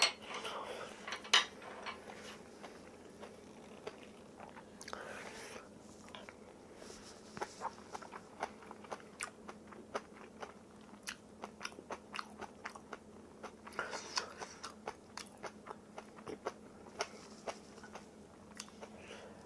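Close-up chewing of spicy kimchi and rice: a steady run of crisp crunches, about two or three a second, getting more frequent after the first few seconds.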